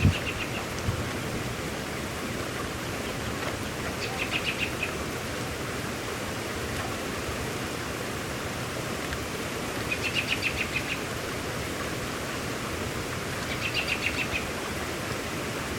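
Steady hiss of heavy rain falling. Three times, about 4, 10 and 14 seconds in, a short, high, rapid trill lasting about a second sounds over it.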